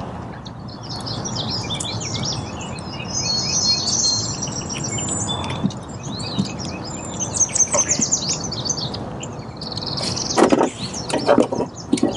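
Several songbirds chirping and trilling over a low, steady background rush. A few knocks and rustles come near the end.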